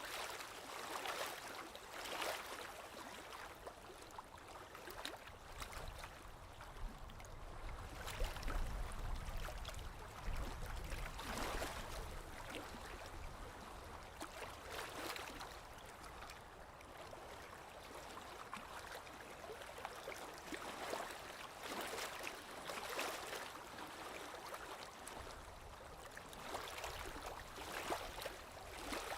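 Small waves lapping on a lake shore, gentle splashes swelling and fading every couple of seconds. A low rumble joins in for a few seconds about a third of the way in.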